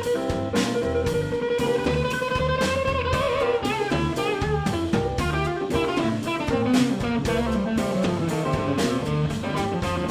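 Live blues band playing an instrumental break: a lead electric guitar holds and bends notes over drums and bass, with a steady beat.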